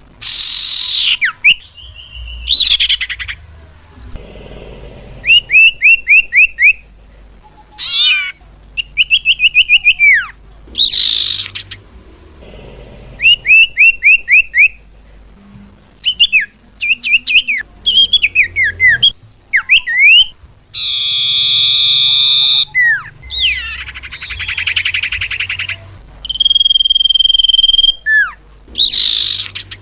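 Cipau bird lure calls: loud, varied bird calls in quick runs of repeated chirps and sweeping whistles, broken by short pauses. There is a buzzy trill about three quarters of the way through and a long steady whistle near the end.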